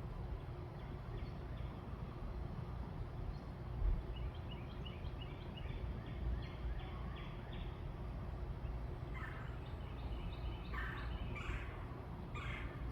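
Backyard birds calling over a steady low rumble: a quick run of short chirps about four seconds in, then several louder, rough calls from about nine seconds in.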